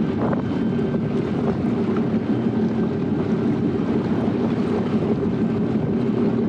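Sea-Doo personal watercraft engine running at a steady speed, a constant drone with wind buffeting the microphone.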